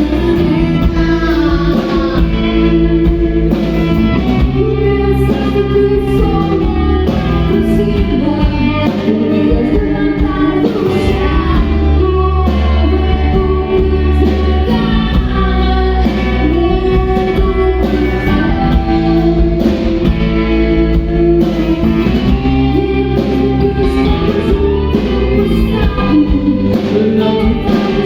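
Rock band playing live: a voice singing over electric guitar and a steady bass line.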